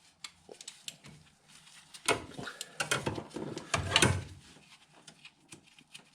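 Hand ratchet and socket clicking in short runs as a small 10 mm dipstick-tube bolt is undone on a car engine, with a few louder metal knocks about two, three and four seconds in.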